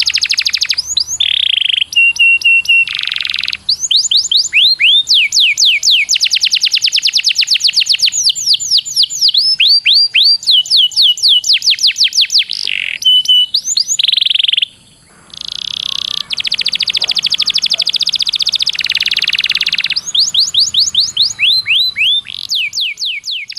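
Domestic canary singing a competition-style song of the kind played as a master recording to tutor young canaries. It runs through fast trills of repeated downward-sweeping notes, long rolls and a few held whistled notes, with a brief pause about fifteen seconds in.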